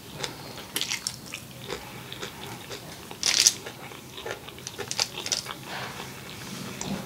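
A person chewing a mouthful of noodles close to the microphone: wet smacking and clicking mouth sounds, with a louder, sharp smack about three seconds in.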